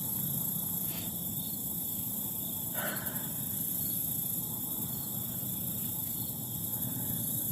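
Outdoor insect chorus, crickets or similar, making a steady high-pitched trilling throughout, with a short faint sound about three seconds in.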